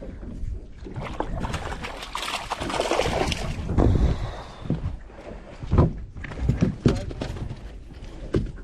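Small fishing boat in wind and chop: a rushing noise about two seconds in, then a series of dull thumps.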